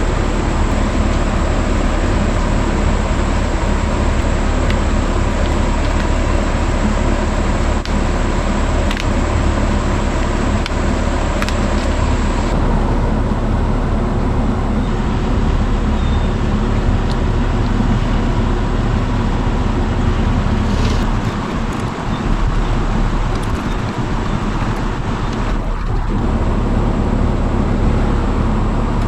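A motor or engine running steadily, with the sound changing abruptly a little under halfway through.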